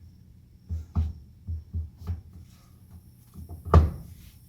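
Dull metal knocks and clunks as a car's driveshaft is worked into place: about six in quick succession, starting just under a second in, then a single louder knock near the end.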